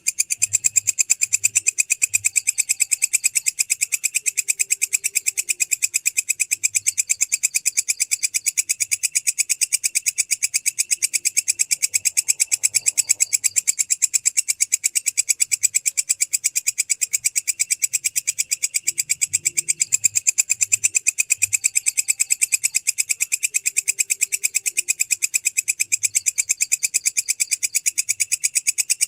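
Grasshopper stridulating: a continuous, high-pitched buzz made of fast, even pulses that does not let up.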